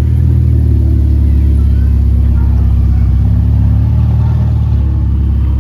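Car engine running loud and close with a deep, steady rumble, its tone shifting slightly near the end.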